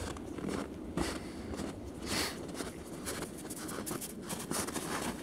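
Footsteps of a person walking through snow in hard frost, a string of uneven crunching steps.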